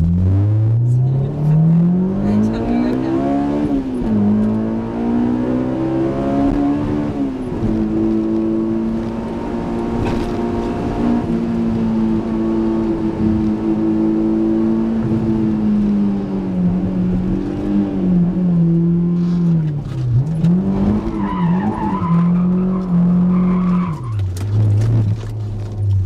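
Honda S2000's four-cylinder engine through a Toda exhaust, heard from inside the cabin. It accelerates hard, with revs climbing, dropping at a gear change, then climbing again. Then it holds a steady cruise, and near the end it slows, the revs falling with short rises and dips as it changes down.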